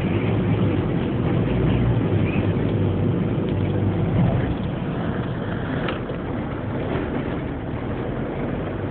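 Loud, steady rumbling of gale-force wind mixed with vehicle noise, heaviest in the low end. It eases slightly about halfway through.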